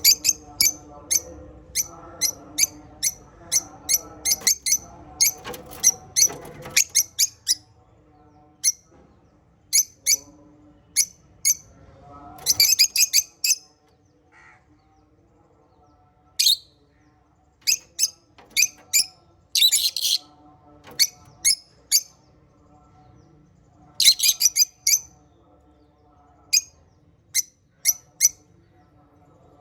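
A group of small pet parrots chirping: quick, sharp high chirps come close together for the first seven seconds or so, then arrive scattered, singly and in short bursts, over a faint, softer chatter.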